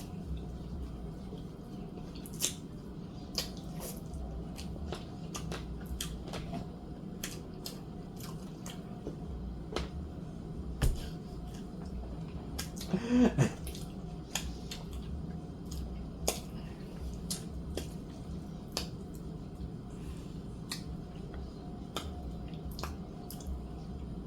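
Close-miked eating of barbecue chicken wings: scattered wet clicks and smacks of biting and chewing, with a brief voiced sound about thirteen seconds in.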